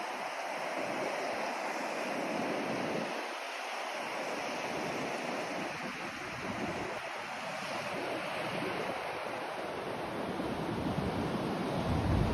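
Steady rushing hiss of a white-noise sleep track, with an uneven low rumble underneath that swells up near the end.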